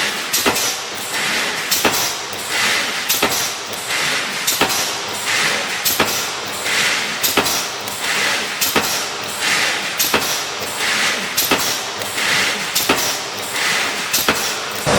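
Automatic column mesh resistance spot-welding machine cycling: a sharp metallic clack about every three-quarters of a second, with a hissing noise between strikes.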